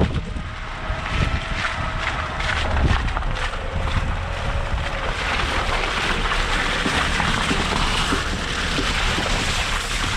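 A 2013 Suzuki Jimny's 1.3-litre inline-four driving over a rough unsurfaced byway, with a low rumble and wind buffeting the microphone. In the first few seconds the tyres and suspension knock over bumps; from about halfway a steady rushing hiss takes over.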